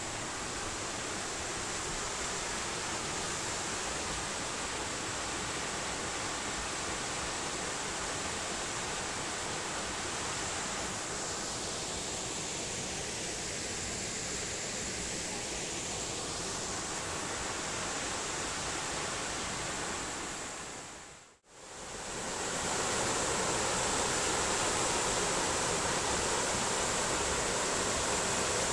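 Waterfall rushing steadily. About 21 seconds in it dips to silence for a moment, then comes back a little louder.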